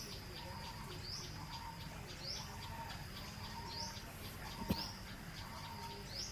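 Birds calling: a short rising chirp repeats about once a second, with a rapid faint pulsing call and short repeated lower notes alongside, over a steady low background. A single sharp click sounds near the end.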